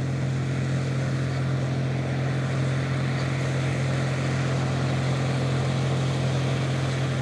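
Case International 1660 Axial-Flow combine running steadily while harvesting soybeans: its Cummins diesel engine and threshing machinery make a constant low hum under a dense mechanical din.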